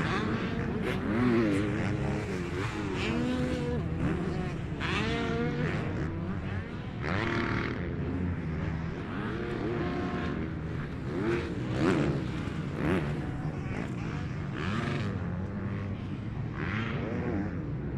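Several motocross bikes racing around the track, their engines revving up and down through throttle and gear changes, with overlapping rising and falling engine notes as riders pass.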